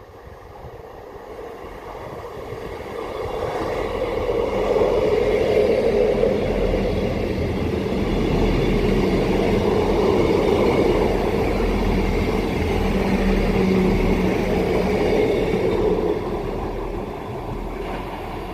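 South Western Railway electric multiple-unit train passing through the station: its rumble and rail noise build over about five seconds, hold steady, then fade near the end.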